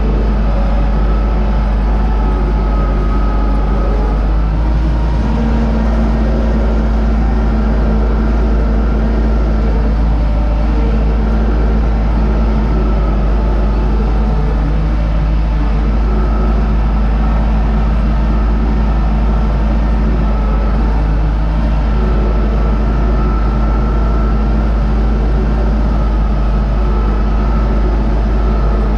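UTB Universal U650 tractor's diesel engine running steadily under load as it pulls a SUP-21 wheat seed drill, with a deep rumble and a constant hum.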